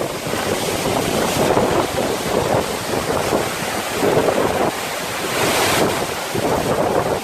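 Waterfall rushing, a loud steady roar of falling water that swells and eases, with wind buffeting the microphone.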